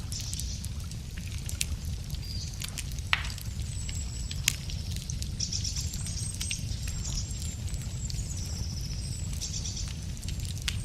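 Wood campfire crackling, with scattered sharp pops and two louder snaps about three and four and a half seconds in, over a steady low rumble. Songbirds sing high rapid trills and thin whistles through the second half.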